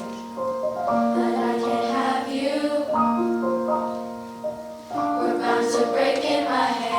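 Children's choir singing with piano accompaniment, long held chords changing about every two seconds.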